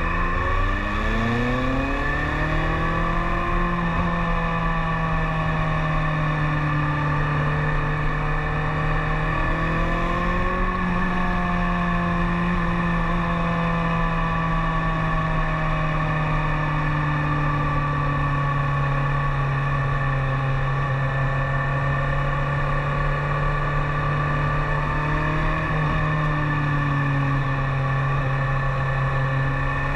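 2012 BMW K1300S motorcycle's inline-four engine pulling up through the revs over the first few seconds, then running at a steady cruise with small rises and falls in pitch.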